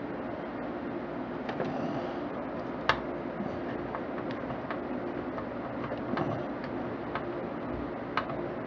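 Scattered light clicks and ticks of a screwdriver and metal mounting hardware as heatsink screws are tightened down, over a steady low hum. The sharpest click comes about three seconds in.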